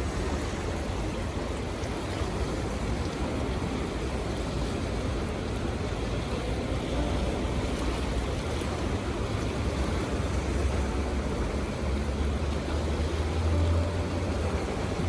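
Fast, strong river current rushing steadily through rapids, with wind buffeting the microphone as a low rumble that swells near the end.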